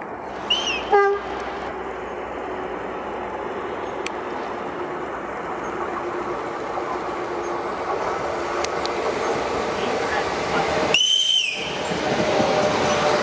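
Renfe Class 447 electric commuter train running on the track, its rolling noise growing steadily louder as it approaches. It sounds a short horn call about a second in, and a louder, high-pitched horn blast of about half a second near the end.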